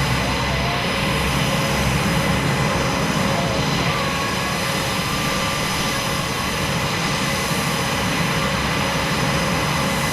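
Aircraft engine noise, steady in level throughout, with no rise or fall of a pass.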